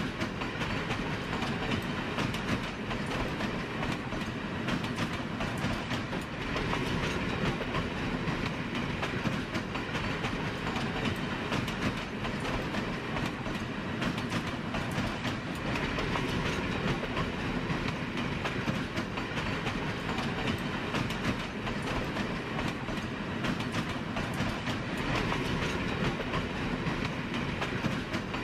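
A train running on rails: a steady rumble with many fine clicks throughout.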